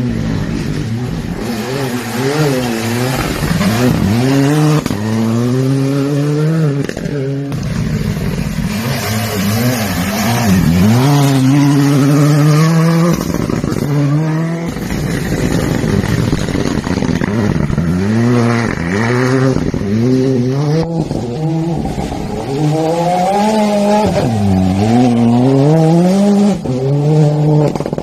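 Rally cars accelerating hard on a stage, the engine note repeatedly climbing and dropping through gear changes, with a steady hiss over it. Several passes are cut together, with abrupt changes a few times.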